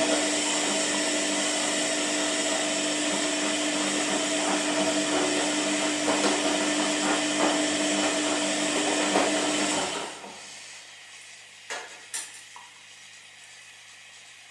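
Washing machine running: a steady motor hum under a loud swishing noise, which cuts off about ten seconds in. Two short clicks follow a couple of seconds later.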